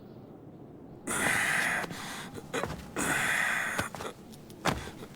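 A character's heavy breathing: two long, breathy gasps about two seconds apart.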